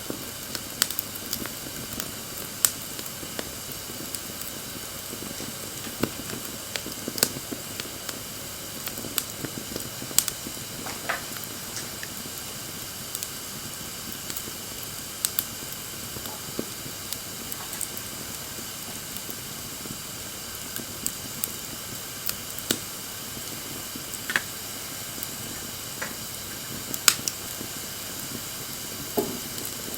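Wood campfire burning: a steady hiss with irregular sharp crackles and pops from the burning wood, and a few brief sizzles.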